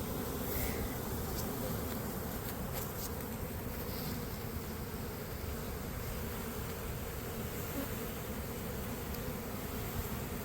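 A honey bee swarm buzzing steadily, a dense hum of thousands of bees, with a few faint clicks.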